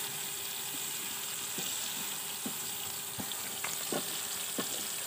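Chopped tomatoes and sliced onions frying in ghee on a tawa: a steady sizzle, with a few short ticks scattered through it as a wooden spoon stirs them.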